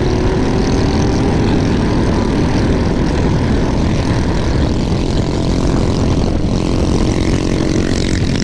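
Loud, steady wind rush over the microphone of an electric scooter riding at high speed, with a faint steady motor whine under it. A second engine drone with several pitches joins near the end.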